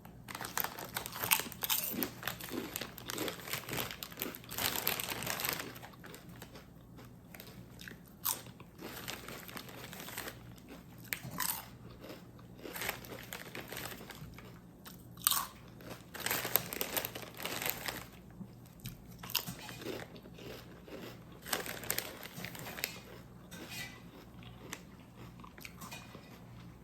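A person crunching and chewing Miss Vickie's kettle-cooked potato chips: dense crunching bites for the first six seconds or so, then separate, spaced-out crunches as the chewing goes on.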